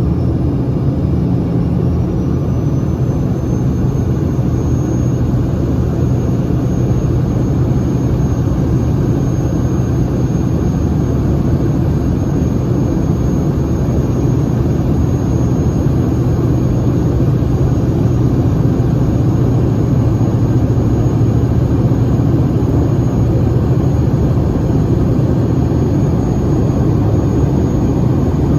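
Airliner engines at takeoff power: a steady loud rumble with a high, thin whine that rises slightly in the first few seconds and then holds.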